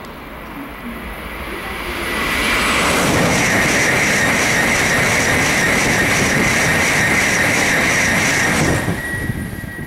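Shinkansen bullet train passing close by at speed. Its rushing noise builds over the first couple of seconds, holds loud and steady with a high whine for about six seconds, then falls away near the end as the train clears.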